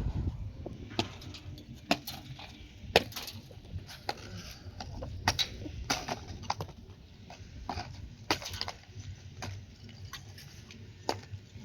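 Irregular sharp taps and knocks, one or two a second at most, with pauses between them, over a faint low rumble.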